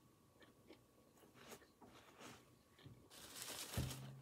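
Faint chewing and small mouth clicks while eating a gyro, then from about three seconds in the rustle of a facial tissue being pulled from its box and handled.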